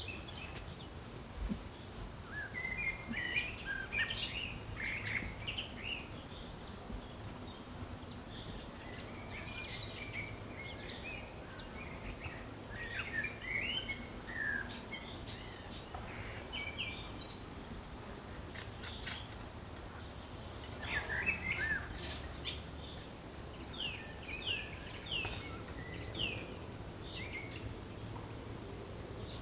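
Forest birdsong: several small birds chirping and twittering on and off, over a steady low background rumble. A few sharp clicks come roughly two-thirds of the way through.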